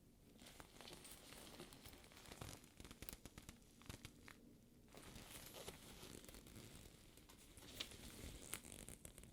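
Fingers rubbing and peeling off the sticky surface of a faux leather bag: a soft ongoing rustle with small ticks and clicks, with a short pause about four seconds in.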